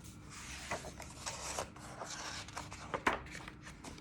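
Faint rustling and scattered light clicks from hands handling a picture book and its pages, with one sharper click about three seconds in.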